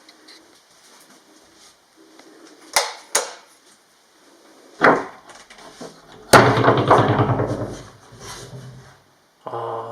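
A door being handled: a couple of sharp clicks and a knock, then about two seconds of loud, fast rattling rumble as the door is moved.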